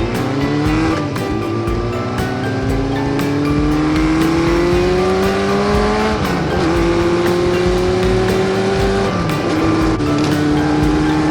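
Kawasaki ZRX400's inline-four engine under way, pulling up through the gears: the revs climb steadily and drop at gear changes about a second in, around six seconds and about nine seconds in.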